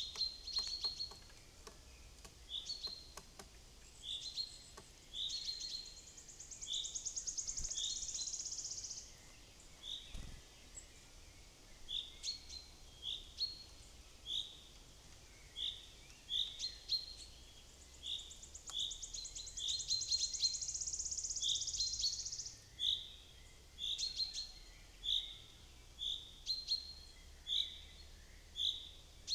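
Wild songbirds calling: short high chirps repeat about once a second throughout, and twice a long, very fast high trill runs for about four seconds.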